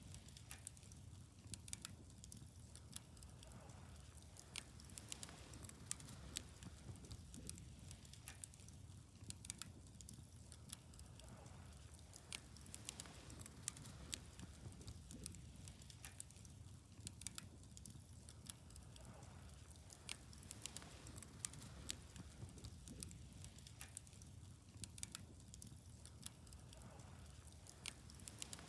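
Wood fire crackling quietly, with many sharp, irregular pops and snaps over a steady low rumble.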